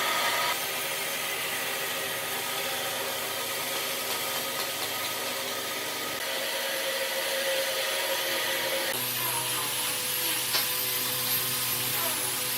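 Electric woodworking power tool running steadily, its note changing abruptly about nine seconds in.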